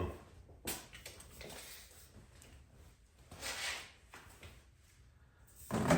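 Quiet workshop room tone with a short click about a second in and a soft rustle in the middle: faint handling noises.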